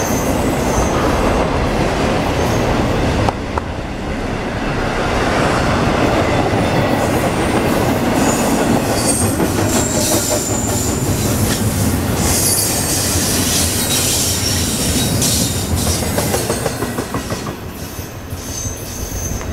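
Intermodal freight train's well cars rolling past: steady rumble and clatter of steel wheels on rail, with brief high-pitched wheel squeals now and then. The noise falls off over the last few seconds as the end of the train goes by.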